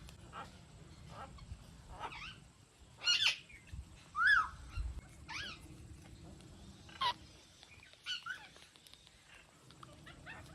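Indian ringneck parakeet calling: a string of short, harsh squawks about a second apart, loudest about three and four seconds in.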